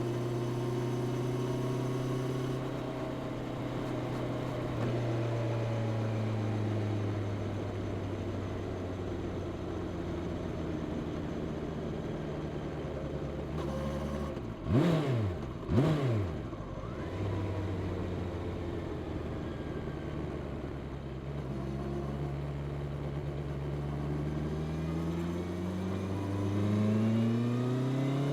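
Honda CB650R inline-four on its stock exhaust, running under way. The revs ease slowly down, two short sharp revs come about halfway, then the engine pulls with climbing revs near the end.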